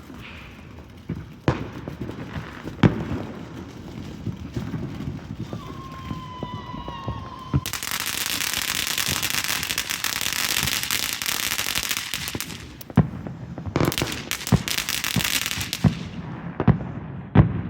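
Backyard fireworks going off. Scattered crackling and a few sharp bangs come first, then a short whistle about six seconds in. A loud steady hiss follows for about five seconds, a second hiss comes around fourteen seconds in, and a quick run of pops and crackles closes it.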